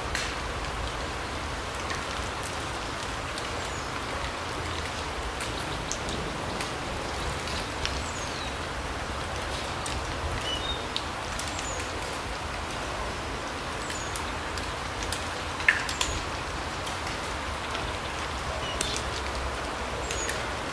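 Forest ambience: a steady hiss with scattered short, high bird chirps and small ticks, and one sharper click about three-quarters of the way in.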